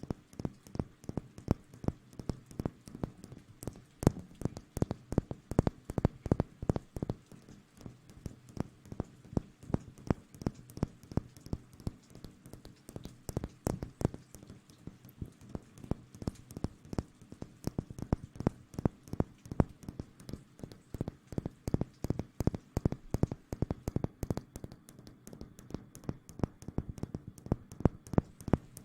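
Close-miked ASMR trigger sounds: fingers tapping and scratching in a quick, irregular run of clicks several times a second, over a faint low hum.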